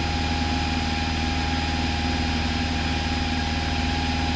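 Steady drone of a Cessna 172's piston engine and propeller heard inside the cockpit, with a thin steady tone over it.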